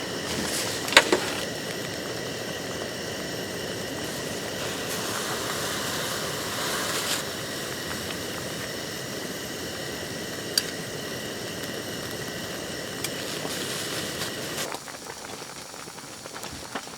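Food bubbling in a pot over a camp stove, a steady hissing simmer with a few sharp clicks. It drops quieter near the end.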